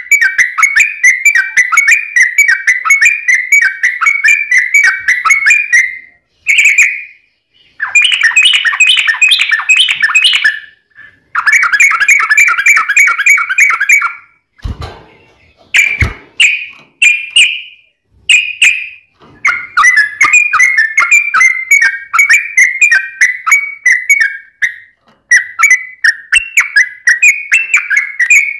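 Yellow-vented bulbul (trucukan) singing long, fast chattering phrases of bubbly repeated notes, with short pauses between phrases. Two brief dull knocks come about halfway through.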